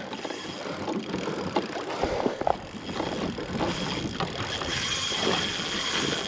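Water sloshing and lapping against a kayak hull as the kayak is turned, with scattered light knocks and clicks from the boat.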